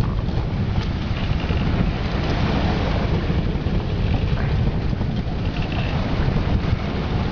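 Strong wind buffeting the microphone: a loud, steady low rumble with a rushing hiss above it and a few faint brief whistles.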